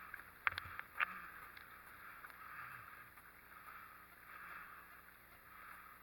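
Water sloshing against a small boat under way, with two sharp knocks about half a second and a second in.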